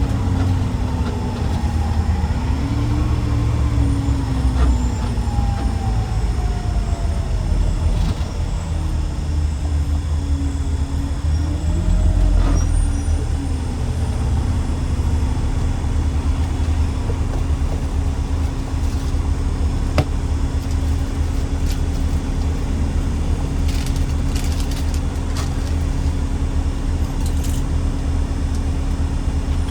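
Heavy truck engine running under way with a deep rumble, its pitch rising and falling through the first half as it speeds up and shifts, then holding steady. A few light clicks and rattles come near the end.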